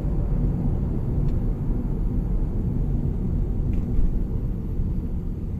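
Car driving along: a steady, low rumble of road and engine noise.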